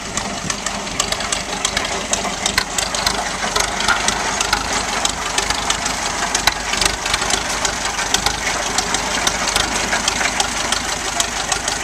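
Old United motor grader's engine running steadily, with a fast clattering knock.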